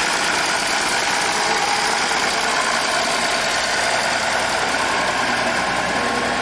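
A motor vehicle's engine running steadily, with a constant rumble and hum that stays the same throughout.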